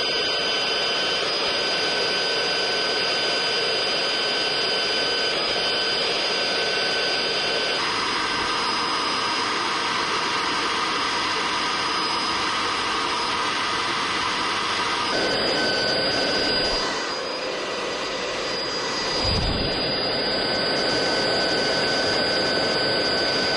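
An electric power tool running steadily with a constant motor whine, its sound shifting in character about a third and two thirds of the way through and dipping briefly a little later.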